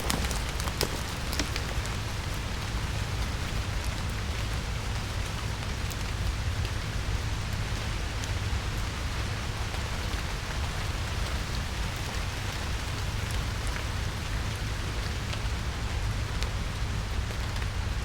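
Rain falling in a wet forest: a steady patter with sharp individual drops striking close to the microphones, several in quick succession in the first second or two and scattered after. A steady low rumble runs underneath.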